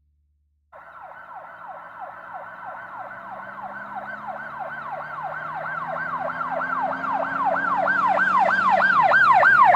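Emergency vehicle siren in a fast yelp, about three falling sweeps a second, starting just under a second in and growing steadily louder as if approaching.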